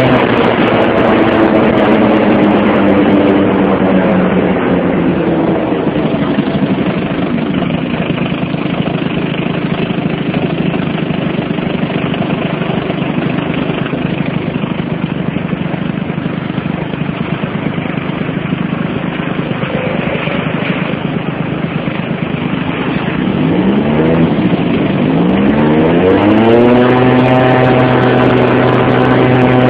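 Motorcycle engine whose pitch falls over the first few seconds, then runs at a low steady hum under a steady rushing noise. From about 23 seconds in it revs up in a few wavering rises and settles into a steady higher note.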